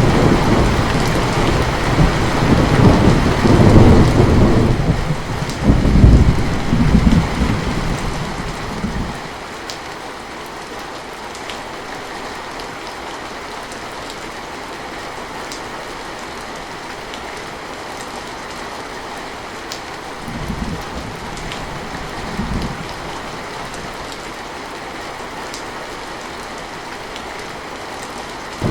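Heavy rain falling steadily, with a long low rumble of thunder that fades away about nine seconds in. Later two short low rumbles of thunder sound over the rain.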